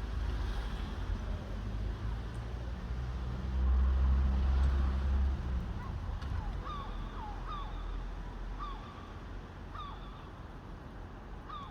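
Young crows squabbling: a run of short, falling calls repeating about every half second from about six seconds in, over a low rumble of passing traffic that is loudest in the middle.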